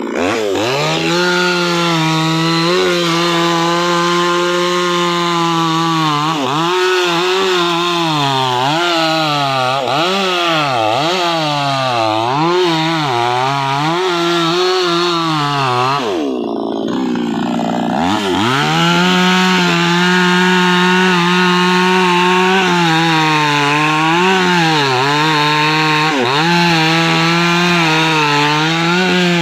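Chainsaw engine running at high revs while cutting wood, its pitch dipping again and again as the chain bogs down under load. About two-thirds through, the revs fall away briefly and then climb back up.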